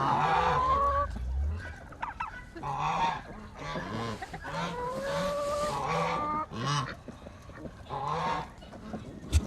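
Backyard fowl calling: several drawn-out, steady calls, with short low notes in between.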